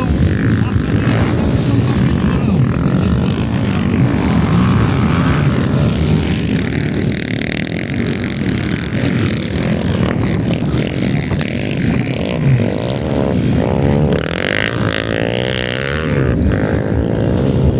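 Motocross bike engines running loudly and revving. Near the end, one engine's pitch repeatedly rises and falls as the throttle is worked.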